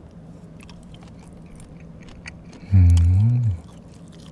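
A man chewing a mouthful of spicy stir-fried pork, with soft wet mouth clicks. About two-thirds of the way through, he gives one loud, low, closed-mouth "mmm" of appreciation that rises and then falls, lasting under a second.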